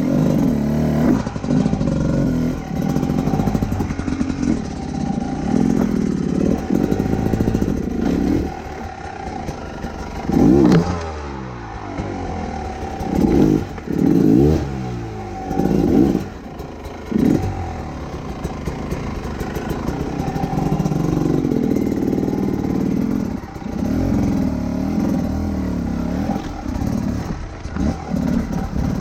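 Enduro motorcycle engine running under way, its pitch rising and falling with the throttle. In the middle comes a run of five or six sharp revs, one after another.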